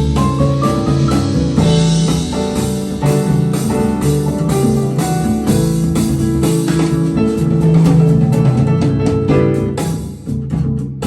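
Music played back through KLH Model 3 loudspeakers: an instrumental passage of a jazz-flavoured pop song with drums, guitar and piano, opening with a short rising run of notes and thinning out near the end.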